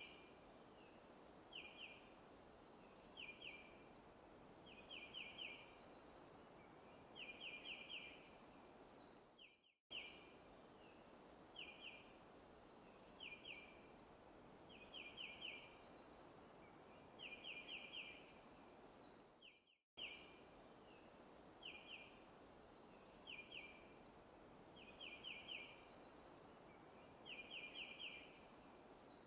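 Faint forest ambience: a bird chirping in short runs of quick repeated notes, a few seconds apart, over a steady background hiss. It is a loop about ten seconds long, cutting out briefly at each repeat, about ten and twenty seconds in.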